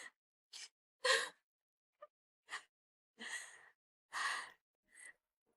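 A person breathing in short, breathy gasps and sighs, about six uneven breaths, the loudest about a second in.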